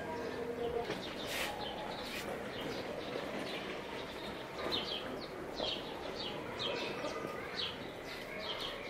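A small bird chirping, short high chirps repeated every second or so.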